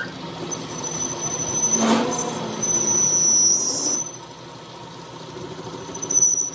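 A high-pitched metal squeal that holds steady for about three and a half seconds, with one sharp knock about two seconds in, then comes back briefly near the end over a low steady hum.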